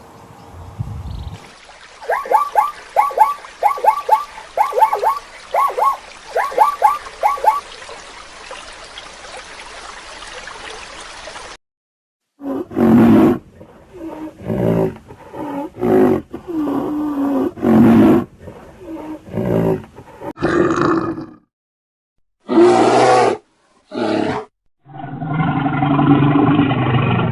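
Animal calls in edited clips. First comes a quick series of short, high calls, repeated several times a second over a steady hiss. After an abrupt cut, a run of loud, deep calls with a strong pitch follows, each lasting up to about two seconds.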